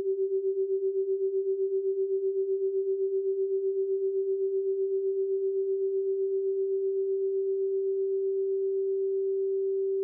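A single steady pure tone at a middle pitch. It has a fast pulsing wobble that slows and smooths into an even hum toward the end.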